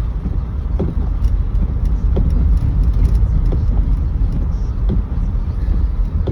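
Car driving on a snow-covered road, heard from inside the cabin: a steady low road and engine rumble, with a faint regular swish roughly once a second.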